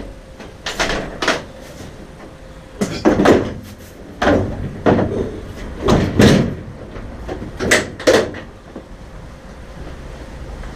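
A string of irregular knocks, scrapes and rattles from hands working parts, about a dozen in clusters, dying away after about eight seconds.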